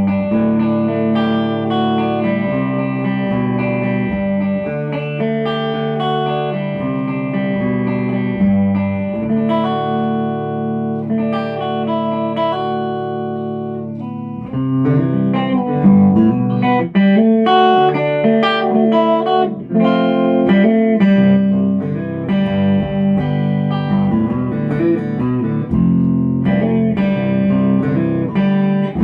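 Yamaha Revstar RS320 electric guitar with ceramic humbuckers, played through a small all-valve amp: sustained chords and picked notes. About halfway through, the playing gets louder and busier.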